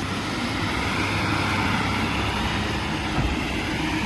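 Heavy diesel engine running steadily: a constant low drone under a broad, even rumble.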